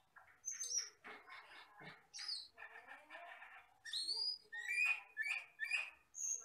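Asian glossy starling (camperling, cucak keling) singing a varied run of short chirps and whistles, with high sharp notes and rising slurs, coming faster in the second half.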